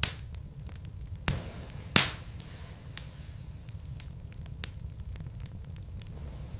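Wood fire burning in a fireplace: a steady low rumble of flames with sharp crackles and pops from the logs, three loud pops in the first two seconds, then scattered lighter ticks.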